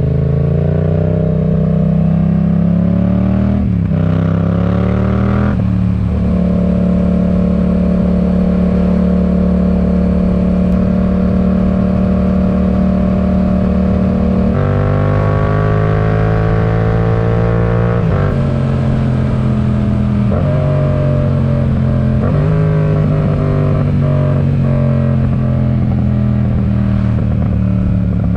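Yamaha MT-07's parallel-twin engine running through a RoadsItalia aftermarket exhaust while riding. The pitch climbs under acceleration with gear changes about 4 and 6 seconds in, holds steady for several seconds, then shifts again several times in the second half.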